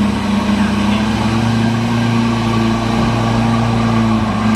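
Truck diesel engine running steadily, holding an even pitch.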